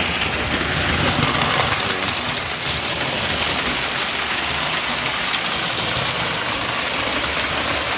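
Electric model train running on the layout track: a steady motor whir and wheel rumble.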